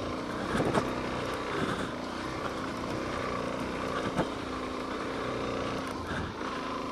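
Suzuki DR-Z400S single-cylinder four-stroke engine running at steady low revs while the bike rolls along a dirt trail, with a couple of sharp knocks, about a second in and about four seconds in.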